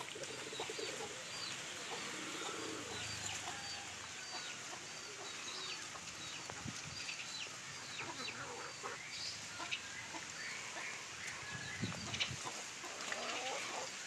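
Faint background bird sounds: a run of short high chirps repeating about twice a second, with scattered low clucking calls and small knocks.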